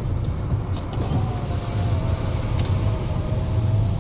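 Renault Grand Scénic's small diesel engine running with a steady low rumble. A faint, thin, steady whine comes in about a second in.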